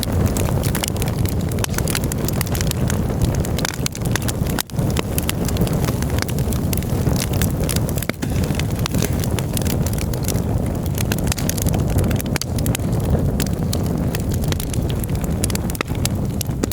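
Campfire burning, wood crackling and popping in dense irregular snaps over a steady low rumble.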